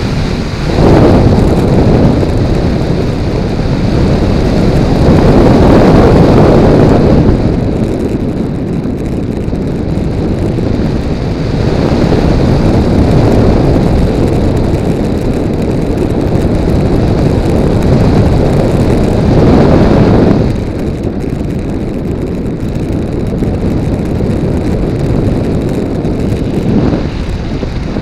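Wind rushing over the microphone of a camera mounted on a flying RC model plane (Multiplex Blizzard), loud and noisy, swelling in surges and easing off again with the plane's speed.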